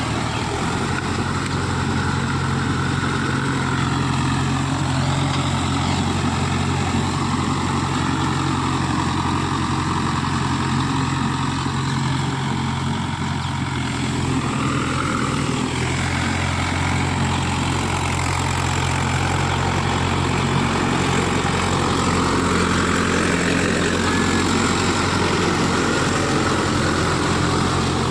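Mahindra Yuvo Tech+ 575 DI tractor's four-cylinder diesel engine running steadily.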